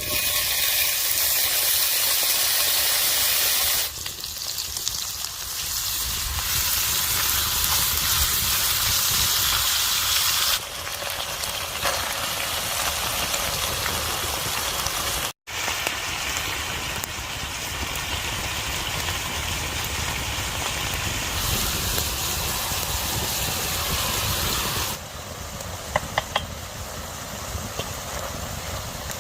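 Steady rushing hiss of outdoor noise that changes abruptly in level and tone several times, with a brief dropout about fifteen seconds in and a few sharp clicks near the end.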